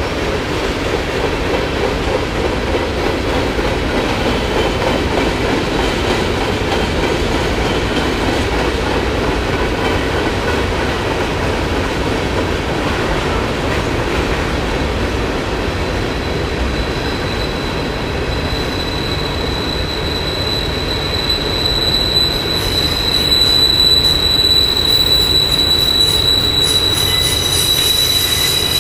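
Freight cars rolling past on steel rails with a steady rumble of wheels. About two-thirds of the way through, a high squeal from the wheels sets in and grows louder, with shriller tones joining near the end.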